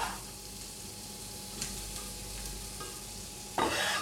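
Chopped onions frying in olive oil in a pot, a steady sizzle. Near the end a louder rush of sizzling as the cut carrots go into the hot oil.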